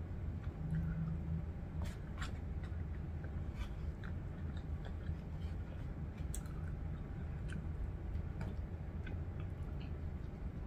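A person chewing food close to the microphone, with scattered small clicks from a plastic spoon against a foam food tray, over a faint steady hum.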